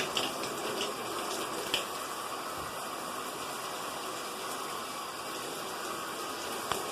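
Shower head spraying water in a steady stream, a running shower with a few faint clicks.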